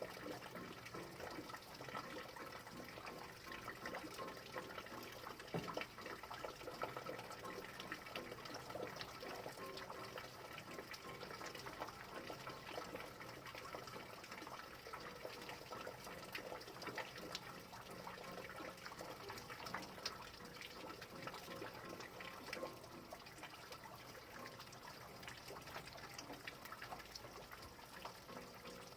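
Steady rain, an even hiss of falling water thick with many small drop ticks and patters.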